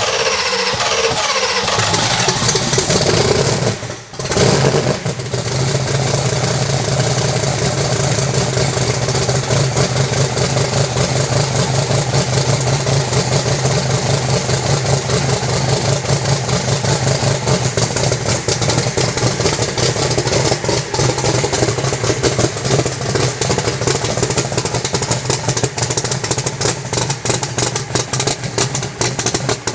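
Proline twin-turbo 520 Hemi drag-race engine starting up and idling. Its low note settles in about two seconds in and dips briefly about four seconds in, then it runs steadily with a fast, uneven pulse.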